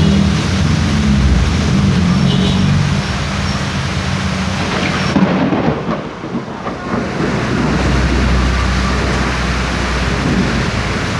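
Heavy rain pouring steadily, a loud even hiss, with a deep low rumble building in the second half.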